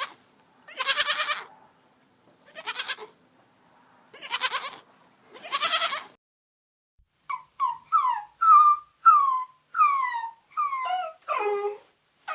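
A goat bleating several times, each call wavering. After a sudden break, a different young animal gives a quick run of short, high cries that each slide downward in pitch, about two a second.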